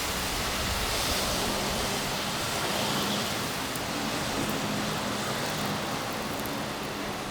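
Traffic on a snowy city street: a passing vehicle's tyre hiss swells about a second in, followed by a low, steady engine hum.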